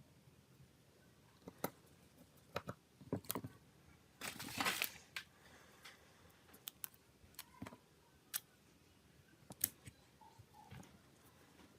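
Scattered sharp clicks and taps of small hard parts and tools being handled on a work surface during a phone restoration, with a short scraping rustle about four seconds in.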